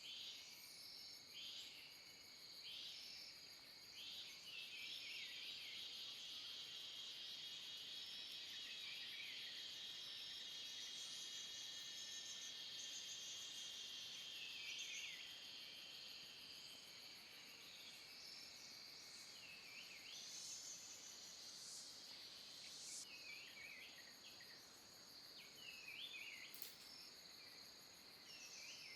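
Faint forest insect chorus: a steady high-pitched buzzing, with short chirping calls repeating every second or two.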